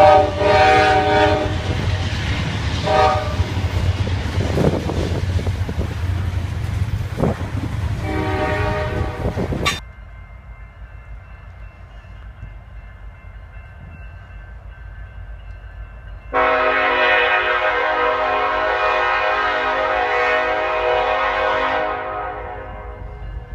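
Diesel freight locomotive air horn sounding over the low rumble of a train. There is a long blast, a short one and another long one, then an abrupt cut to a quieter stretch, then one long blast of about five seconds.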